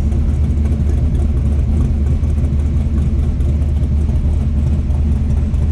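A 512-cubic-inch big-block Mopar stroker V8 in a 1968 Plymouth Barracuda drag car, running steadily with a loud, even low rumble.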